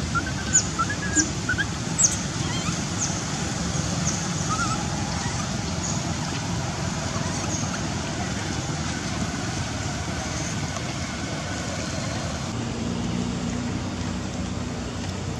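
Steady outdoor background noise with a string of short, high chirps, each falling quickly in pitch, that thin out after about eight seconds; a low steady hum joins near the end.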